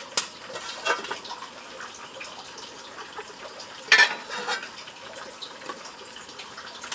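Scattered clinks and knocks of things being handled, with a louder cluster of clatter about four seconds in.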